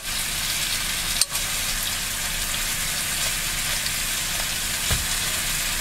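Chicken breast pieces sizzling steadily in a crowded nonstick frying pan over a high gas flame, the pan so full that the meat partly steams rather than sears. A brief light knock comes about five seconds in as the pieces are turned with tongs.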